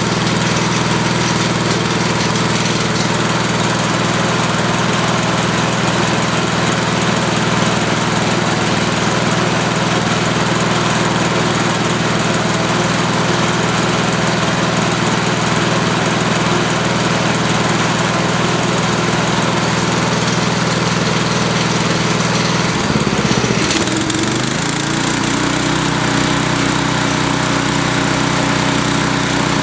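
DR brush mower's 10.5 hp Briggs & Stratton I/C engine running steadily. About three-quarters of the way through, its speed dips and then rises, settling at a new steady speed.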